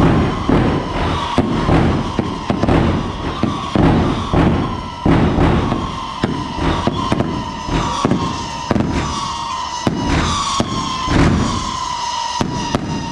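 Daytime festival fireworks barrage: a rapid, loud string of bangs, several a second, with a shrill whistle sliding down in pitch again and again over them.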